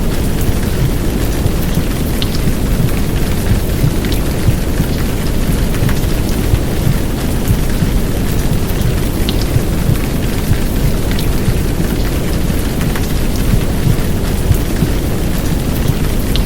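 Heavy downpour of rain over a deep, steady womb-sound rumble, with scattered sharp drop ticks.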